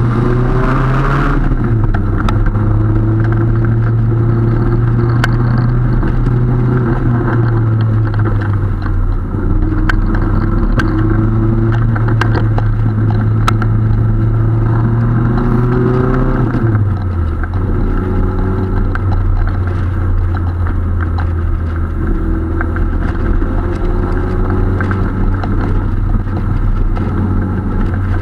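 Marlin Roadster's engine and exhaust running under way, heard from the open cockpit. The engine note holds steady, with short rising stretches, and drops in pitch about a second and a half in and again after about sixteen seconds.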